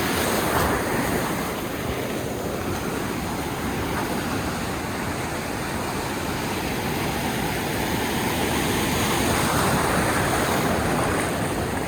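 Rough sea surf breaking and washing, a steady rush that swells louder near the end.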